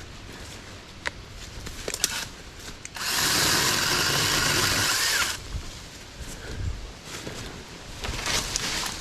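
Saker 20-volt cordless mini chainsaw running for about two and a half seconds, starting about three seconds in and cutting off suddenly. Scattered clicks and rustling from handling come before and after.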